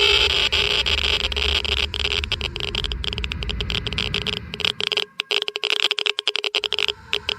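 Geiger counter clicking rapidly at irregular intervals, each click a sharp tick, over a steady background hum that drops away for a second or two about five seconds in.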